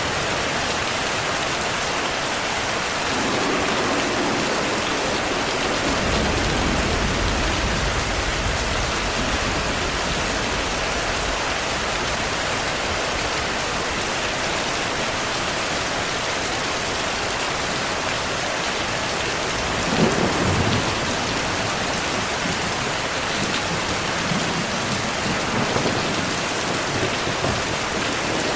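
Heavy rain falling steadily, with thunder: low rolling rumbles from a few seconds in, a sharper thunderclap about two-thirds of the way through, then further lighter rumbles.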